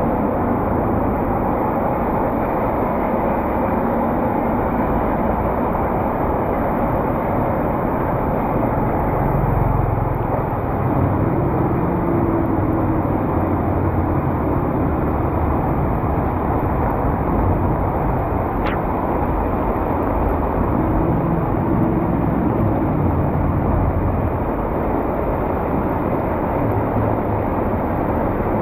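Steady rush of heavy rain mixed with city street traffic, the hum of passing vehicle engines swelling and fading now and then. A single brief click about two-thirds of the way in.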